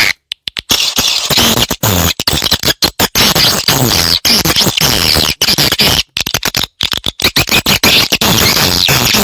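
Swiftlet calls: a dense, loud stream of rapid twittering chirps and clicks from many birds, broken by brief gaps, the lure call played to draw swiftlets in to nest.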